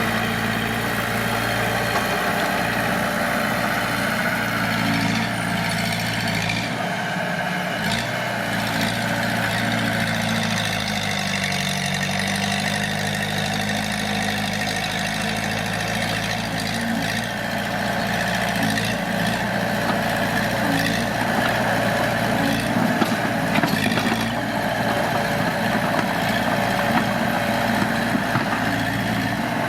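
Heavy diesel engine of earthmoving machinery running steadily, its pitch dipping and rising again around the middle, with a few short clanks.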